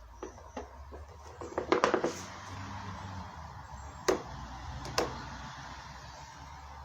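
A series of short, sharp knocks and clicks: a couple of single taps, a quick cluster about two seconds in, then two more separate knocks about a second apart, over a low steady hum.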